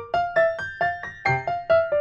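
Background music: a piano-like keyboard playing a quick melody of single plucked-sounding notes, about four a second.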